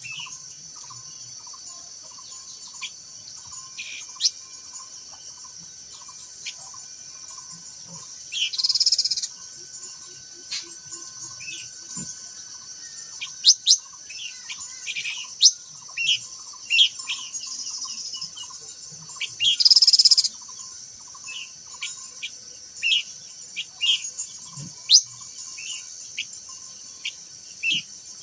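Minla (khướu lùn) singing in a series of short, sharp chirps, with two brief buzzy bursts about a third and two-thirds of the way through. Behind it, a steady high insect drone and a regular pulsing insect call.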